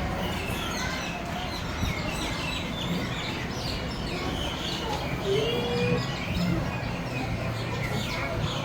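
A flock of small birds chirping together: many short, high chirps overlapping without a break.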